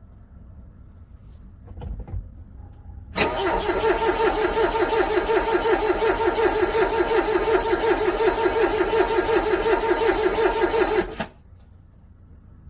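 A car's starter cranking a cold engine for about eight seconds in a fast, even pulsing rhythm. The engine does not catch, and the cranking stops abruptly.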